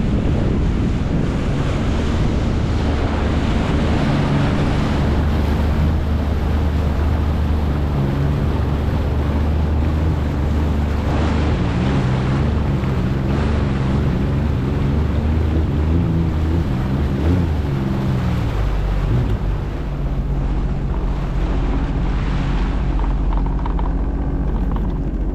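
Jet ski engine running under way, with wind buffeting the microphone and water rushing past the hull. The engine note wavers, then drops lower about nineteen seconds in.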